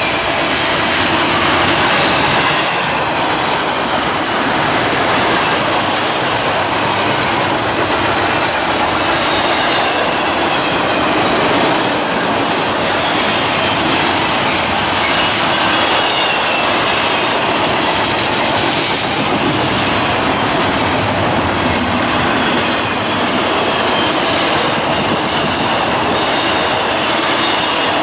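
Railroad cars rolling past steadily, with wheel clatter over the rail joints and a faint wavering squeal of wheels against the rails.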